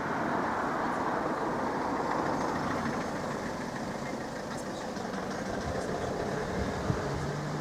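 A road vehicle's engine idling amid steady traffic noise, with a low steady hum coming in near the end.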